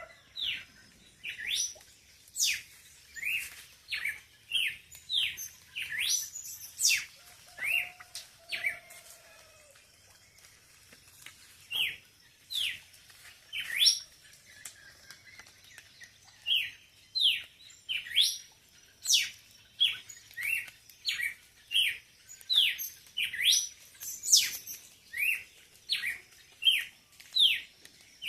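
Birds chirping: a long run of short, sharp calls, each dropping quickly in pitch, about two a second, with a lull around the middle. A faint low note sounds briefly about eight seconds in.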